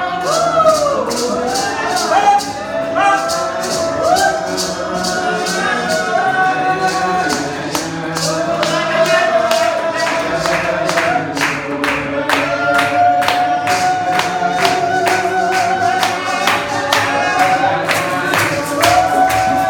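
Gospel singing by a group of voices, with a steady percussion beat of about three sharp strokes a second.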